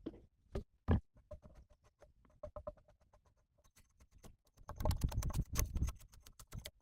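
Irregular clicks and knocks, with one sharp knock about a second in and a dense flurry of knocks about five seconds in.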